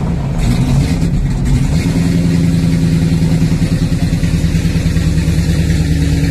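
Dodge Charger SRT's supercharged HEMI V8 idling steadily with the hood open, shortly after being started.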